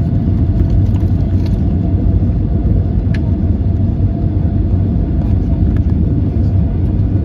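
Steady low rumble of cabin noise inside an Airbus A320-232 in flight, from its engines and the airflow, with a single short click about three seconds in.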